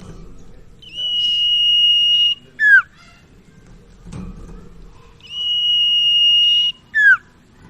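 Sirtu (cipow), the common iora, singing: two long, steady, high whistles of about a second and a half each, each followed by a quick falling note.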